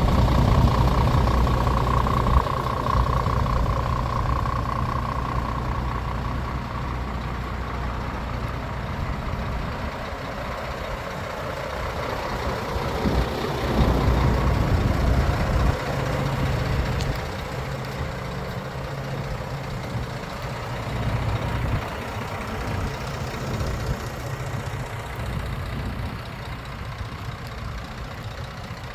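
Scania S540 truck's 13-litre straight-six diesel engine idling steadily. It is louder in the first several seconds and settles to a lower, even note after that.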